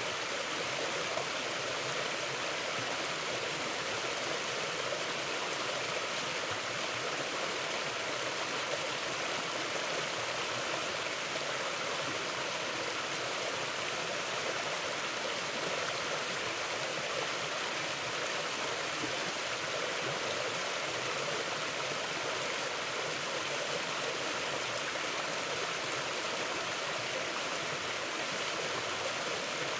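Mountain river flowing steadily: a continuous, even rush of moving water.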